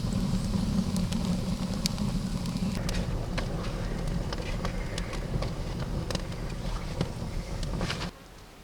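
Wood fire crackling in a homemade clay stove, with frequent sharp pops over a steady low rumble; it cuts off suddenly near the end.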